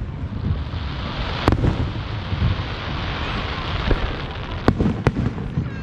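Fireworks going off: a sharp bang about a second and a half in, followed by a couple of seconds of dense crackling, then two more bangs in quick succession near the end, over a steady rumble of distant explosions.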